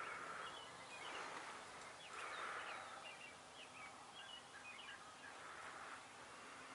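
Faint chirps of small songbirds over a soft, steady outdoor hush that swells and fades every second or so.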